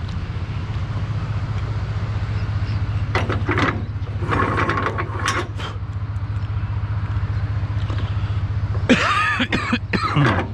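Delivery truck engine running steadily with a low hum, with short mechanical clatters a few seconds in and a burst of squeals near the end.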